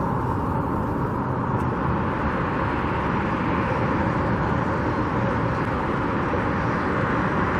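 Steady road-traffic noise, a constant rumble of passing cars with no single event standing out.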